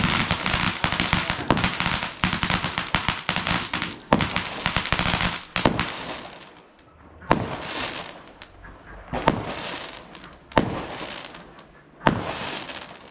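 Fireworks going off. A dense run of rapid bangs and crackles lasts about six seconds, then four separate sharp bangs follow at intervals of about a second and a half, each trailing off in a hissing crackle.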